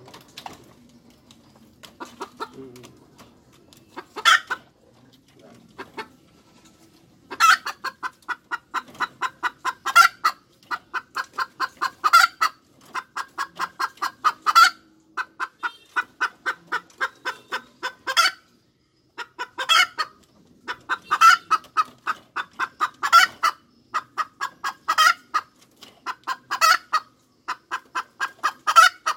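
Hen cackling: fast runs of short clucks, about four a second, each run ending in a louder drawn-out squawk, repeating every two or three seconds. Only a few scattered calls come in the first seven seconds, then the cackling runs on without a break.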